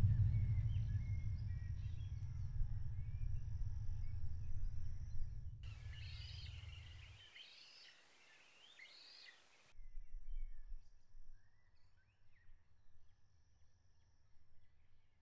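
Birds chirping and calling over outdoor ambience, under a low drone that fades away over the first seven seconds. A louder stretch of birdsong with some hiss starts abruptly about six seconds in and cuts off near ten seconds, leaving only faint, scattered bird calls.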